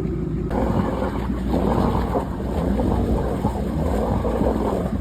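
Motorboat engine running steadily, with a rushing noise of water and wind joining about half a second in.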